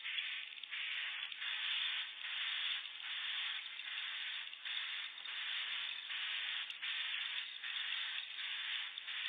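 Recorded swiftlet calls: a continuous run of rasping chirps repeating about one and a half times a second, over a faint steady hum.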